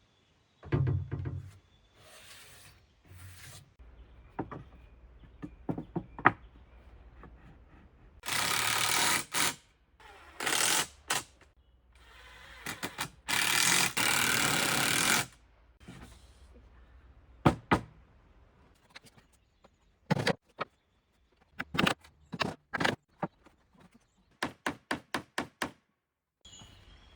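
Woodworking on a 2×4 shelf: scattered knocks and thuds of wood, two short runs of a power tool lasting about a second each, and a quick row of about six taps near the end.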